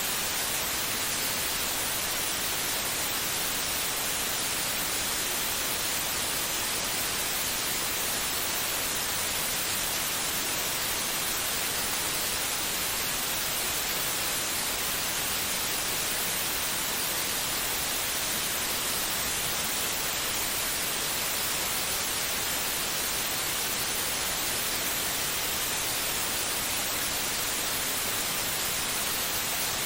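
Steady white noise: an even, unchanging hiss with no rhythm, played to calm a baby to sleep.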